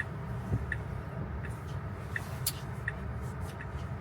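Car's turn-signal indicator ticking steadily, about three ticks every two seconds, over a low road and tyre rumble inside the cabin.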